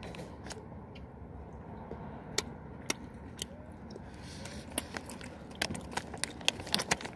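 Close-up chewing of a Warheads sour chewy candy: short wet mouth clicks and smacks, sparse at first and coming much more often from about halfway through.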